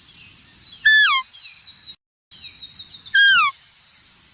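A bird calls twice, about two seconds apart: each time a clear whistled note that holds, then slides down in pitch. Under the calls runs a steady, high, fast chirping. The sound cuts out completely for a moment between the two calls.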